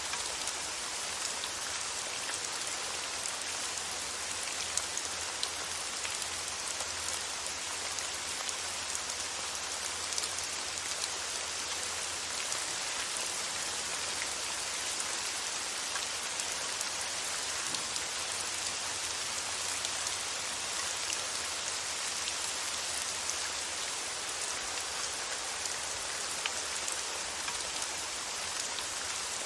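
Steady rain falling and pattering on a surface, a continuous hiss dotted with fine individual drop ticks.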